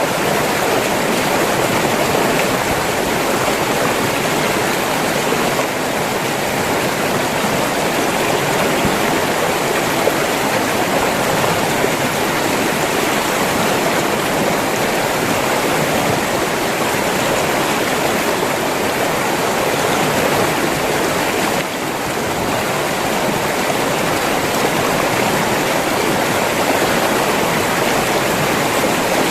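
River water flowing steadily, an even rush of running water with a brief slight dip in loudness about three-quarters of the way through.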